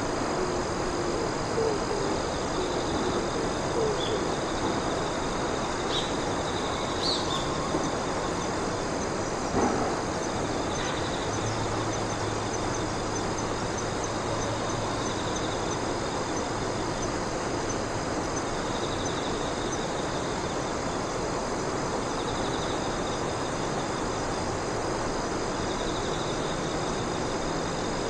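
Night insects calling together: a steady high trill, a pulsed chirp that comes back every three to four seconds, and a fast ticking call through the middle, over an even background hiss. A faint low hum rises for several seconds about halfway through.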